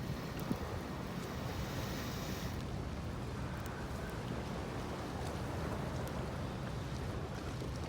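Steady low rumble of wind and surf, with a few faint, scattered crackles from a small wood fire that has just caught.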